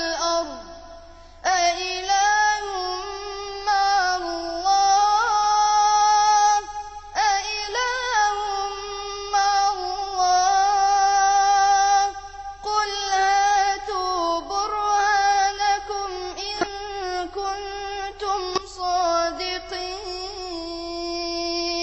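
A young reciter's high voice chanting the Quran in the melodic tajweed style: long drawn-out notes with wavering ornaments, broken three times by short pauses for breath.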